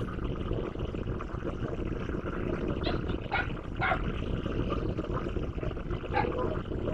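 Idling diesel locomotive making a steady low rumble. Over it a dog barks several times, in short barks between about three and four seconds in, then once more near six seconds.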